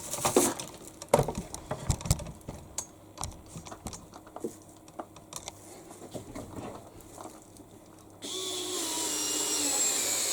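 Scattered light clicks and knocks of hand work on washing-machine panels and screws. About eight seconds in, a loud steady hiss with faint falling whistles starts and carries on.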